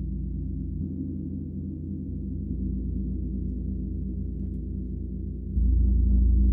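Gong ringing with a deep, sustained hum. It is struck softly about a second in, then struck harder near the end, when the sound jumps louder.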